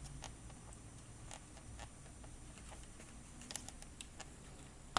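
Light, irregular ticks and creaks from the dashboard of a 2019 VW Touareg over a low cabin road rumble, with one sharp click near the end. The source is the head-up display frame, whose two halves have play at a riveted joint and creak over bumps.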